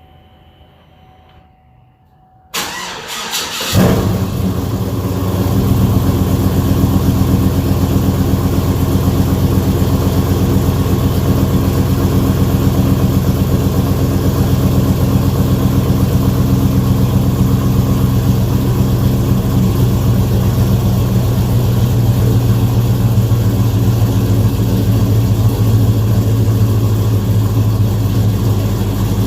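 2007 Chevrolet Avalanche's V8 engine cold-started after sitting unused for a while. The starter cranks for about a second, the engine catches a little under four seconds in, and it settles into a steady idle.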